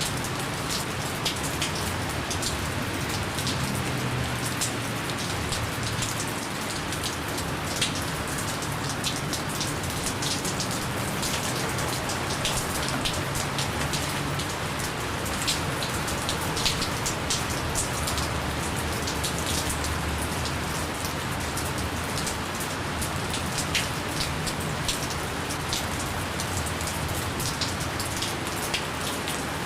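Steady light rain falling on a surface, an even hiss with many individual drops ticking through it.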